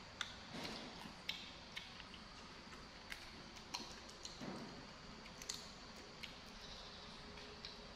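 Soft, irregular clicks and small crunches of cucumber being chewed, a dozen or so scattered at uneven intervals.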